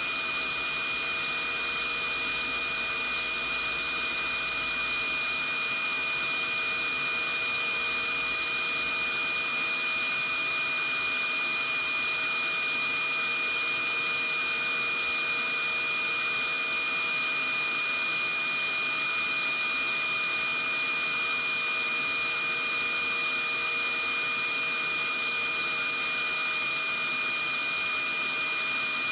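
Vacuum cleaner running steadily: an even, unchanging rushing hiss with a constant high-pitched whine from the motor.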